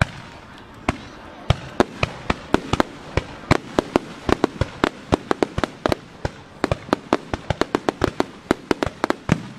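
A rapid barrage of aerial fireworks bursting: sharp bangs, irregular and only a couple in the first second and a half, then coming several times a second.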